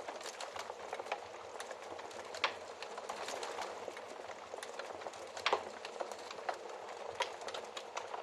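Wood fire crackling: a steady soft hiss with frequent small snaps and pops, two of them louder, about two and a half and five and a half seconds in.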